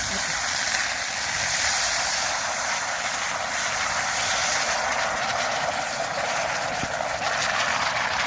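Wood fire burning: a steady loud hiss with faint scattered crackles, then cuts off suddenly.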